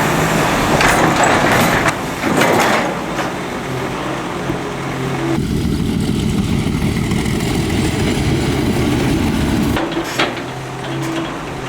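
Heavy excavator's diesel engine running steadily, with several sharp knocks of the machine at work. The sound changes abruptly twice, about five and a half seconds in and again near the end.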